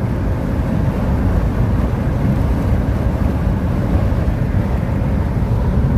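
Steady, loud low drone of a small aircraft's engine and airflow, heard from inside the cabin.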